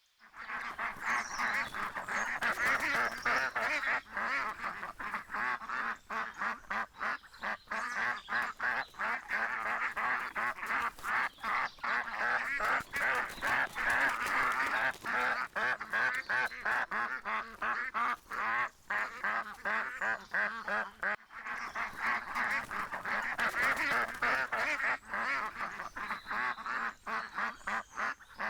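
A flock of ducks quacking, many short calls overlapping without pause, with a brief break about 21 seconds in.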